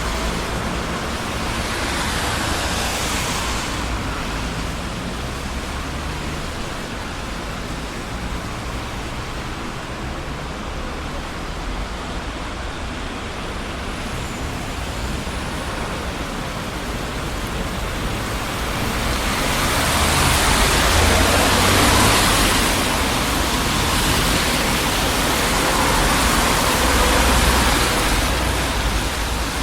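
Steady road traffic on a busy city street: a constant rumble and tyre hiss, swelling as vehicles pass about two seconds in and again through the last third.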